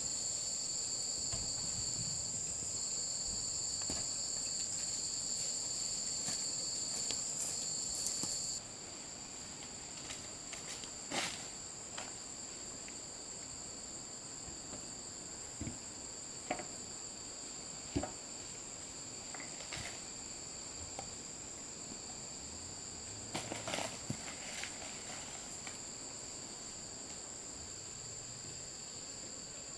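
Insects, crickets or similar, trilling steadily on two high pitches. The trilling drops off sharply about a third of the way in, then carries on more quietly. A few light knocks or clicks come and go, with a small cluster near the end.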